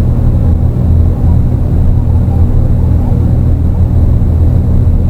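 Dark ambient electronic drone: a loud, steady low rumbling drone of several held low tones, with a grainy noise texture above it and no beat.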